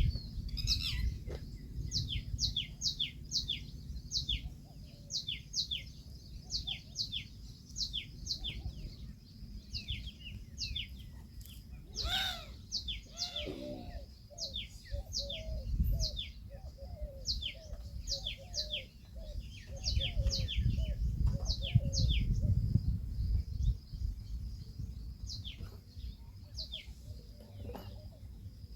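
Birds chirping in a quick, steady series of short falling chirps, about two or three a second. About twelve seconds in comes one louder call that slides down in pitch. A low rumble rises and falls underneath.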